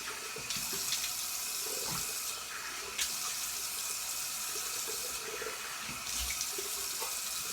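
Bathroom sink tap running steadily, with water splashing unevenly as a freshly shaved head and face are rinsed.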